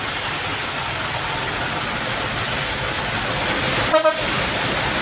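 Steady running noise of a Hino truck, with a brief pitched toot about four seconds in, like a horn sounded twice in quick succession.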